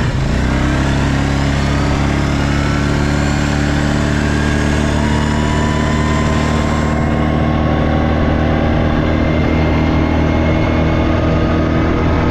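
ATV engine running steadily under throttle while riding, with a fainter whine above it slowly rising in pitch.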